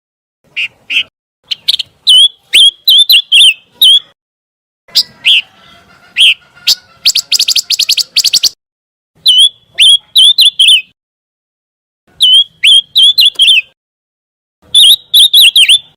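Pancawarna bird calling: bursts of short, high chirping notes, each with a quick hooked flick in pitch, strung in groups with brief silent gaps between them. A fast rattling trill comes about seven seconds in.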